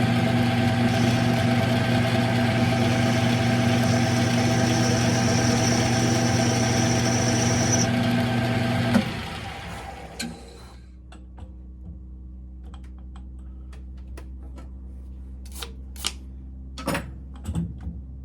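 Smithy CB-1220XL combination lathe running with a steady motor hum and a high whine, then switched off about nine seconds in and spinning down. A few light clicks and taps follow near the end.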